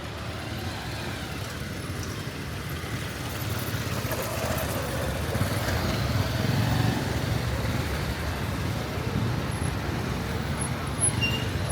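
Street traffic: a motor vehicle's engine rumble builds and peaks about midway as it passes, then eases off.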